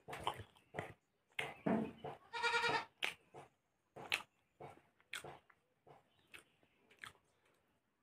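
Close-miked eating: a man chewing chicken and rice with wet smacks and clicks of lips and mouth, irregular and a few a second. About two and a half seconds in a brief high, even-pitched sound rises over the chewing.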